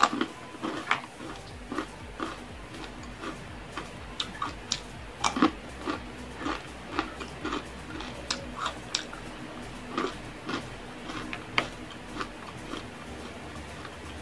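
A person chewing and biting fried food close to the microphone, with irregular short crunches and mouth sounds about two a second.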